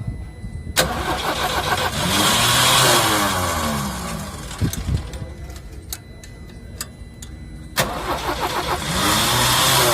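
Tata 1109 truck's diesel engine being cranked twice on the starter after its EDC fuel-injection pump has been bled of air, each attempt beginning suddenly and running a few seconds with the engine note rising and falling. The engine is not catching.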